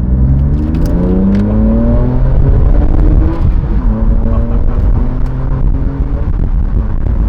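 BMW M2 Competition's twin-turbo straight-six, breathing through an Active Autowerke aftermarket exhaust, accelerating hard. Its pitch climbs for about two and a half seconds, falls back about three seconds in, then holds steadier. The tone is deep, not raspy.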